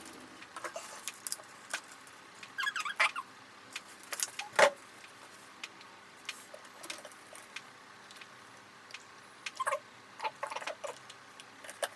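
Scattered small clicks and taps of hands working the printhead cleaning kit's syringe and plastic parts in the printer, with one sharper click about four and a half seconds in and a few brief squeaks about three seconds in.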